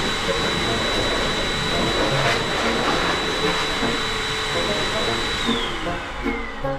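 Pet hair dryer blower running with a steady rush of air and a high motor whine; about five and a half seconds in it is switched off and the whine slides down as the motor winds down.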